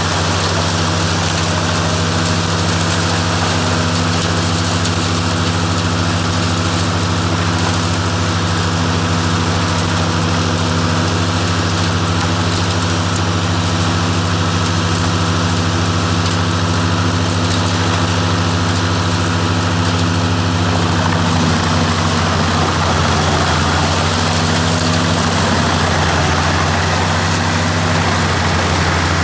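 Ford 8830 tractor's six-cylinder diesel engine running steadily with the Maxim 620 wood chipper driven from it. About two-thirds of the way through, the engine note wavers and a rougher noise rises, as if it is taking load.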